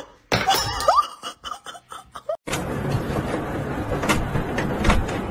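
People laughing in short bursts for about two seconds. Then the sound changes suddenly to a steady hiss with scattered knocks and clicks.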